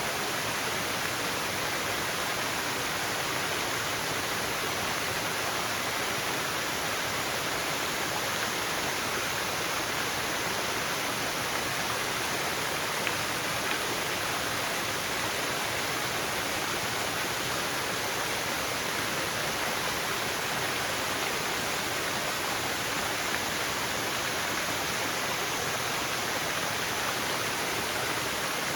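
Waterfall in a forest, water falling and rushing in a steady, even roar of noise.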